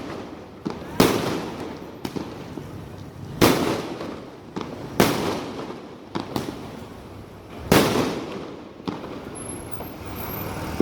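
Fireworks going off: four loud bangs a couple of seconds apart, each trailing off, with smaller pops in between. The bangs stop about nine seconds in.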